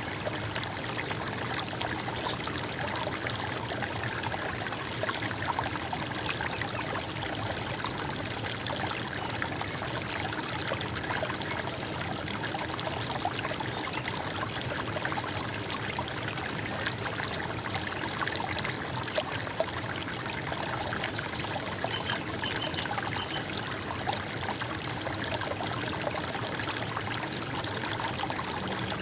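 Stream water running steadily, a continuous trickling and splashing rush with no pauses.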